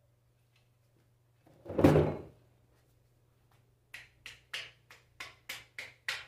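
One loud thunk about two seconds in, then a run of about eight short, sharp taps, some three a second. These are parts of a Bosch alternator being handled and fitted as it is reassembled.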